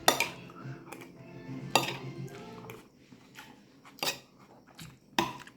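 Cutlery clinking against dishes while eating: four sharp clinks spread over several seconds, with faint music underneath early on.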